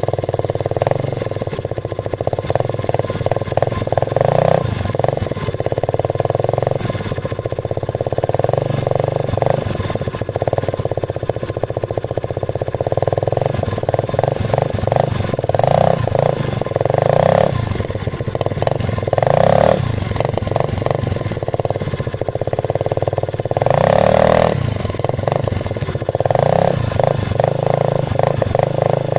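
Yamaha Mio Sporty scooter's single-cylinder four-stroke engine running through a homemade tin-can muffler. Its exhaust note rises and falls repeatedly as the throttle is opened and closed.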